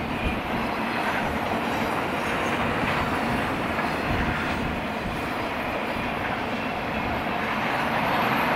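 Intermodal freight cars loaded with truck trailers rolling past on the rails: a steady rumble of wheels on track, with a few brief low thumps.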